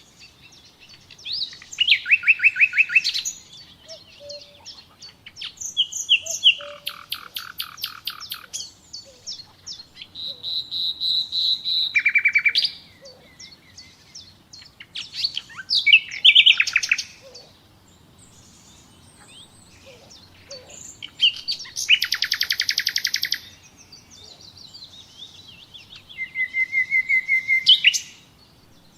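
Nightingale singing: short, varied phrases, each a fast run of repeated notes or a clear held whistle, with pauses of a second or two between them.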